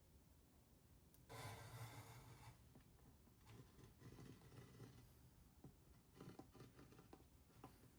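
Near silence with faint room tone; a soft rush of noise starts a little over a second in and lasts about a second, followed by faint scattered rustles and ticks.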